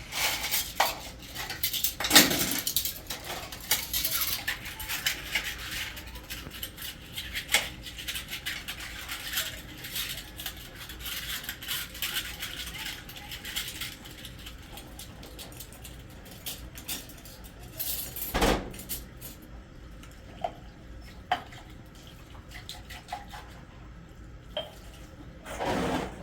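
Dishes and cutlery clinking and clattering, busy for about the first fourteen seconds, then only a few scattered clinks and knocks.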